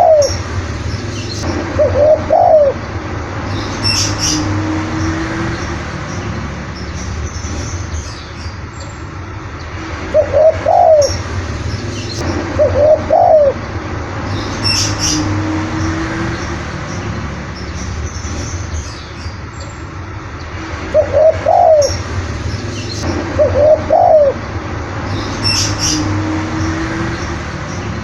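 Spotted dove (tekukur) cooing: loud pairs of coo phrases come about every eleven seconds, three times over, each followed by a softer, lower drawn-out note. A small bird chirps briefly a few times in between, over a steady low hum.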